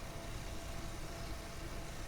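Wood chipper engine idling steadily in the background, a low, even running noise.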